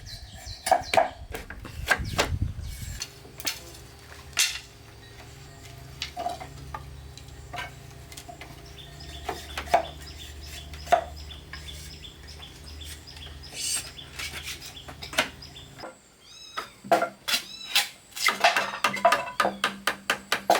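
Irregular sharp knocks and clicks, like hard pieces being handled and struck. A steady low hum runs under them from about three seconds in until about sixteen seconds. A few short chirps come just after the hum stops, then a faster run of knocks near the end.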